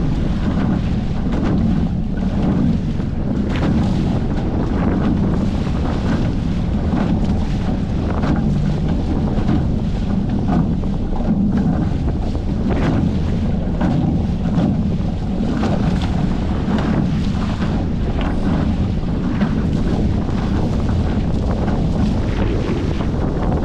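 Wind buffeting the microphone on a Hobie 14 catamaran under sail, a steady loud rumble with water rushing past the hull and frequent short splashes through the chop.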